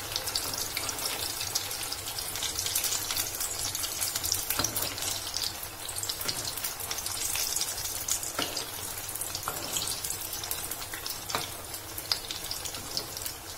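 Sabudana vadas deep-frying in hot oil: a steady crackling sizzle, with a few sharp clicks of the slotted spoon against the pan as they are turned.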